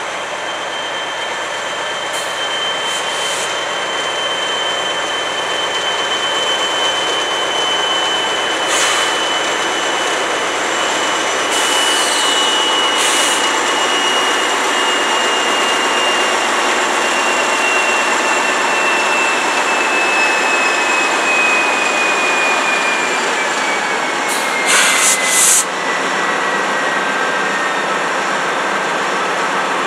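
Freight train passing slowly, steel wheels squealing on the rail over a continuous rushing rail noise. One high squeal holds and then slides slowly lower in pitch as the train slows almost to a stop. A few short bursts of hiss or clank cut in, the loudest near the end.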